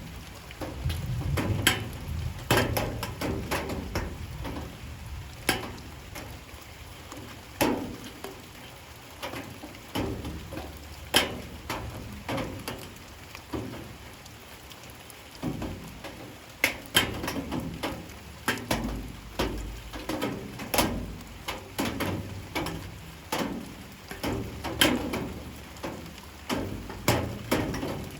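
Light rain falling, with heavy drops striking a hard surface in sharp, irregular taps, a few every second.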